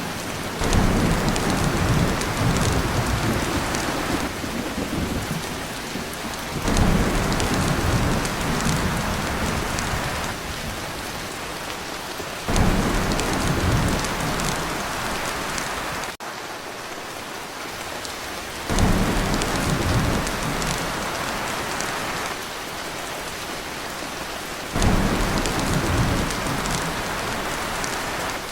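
Heavy rain drumming steadily on a tin roof, with low thunder rumbles that come in suddenly about every six seconds, five times.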